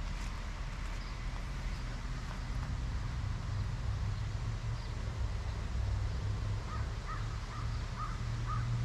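A bird calling in a quick run of about five short calls near the end, over a steady low rumble that swells toward the end.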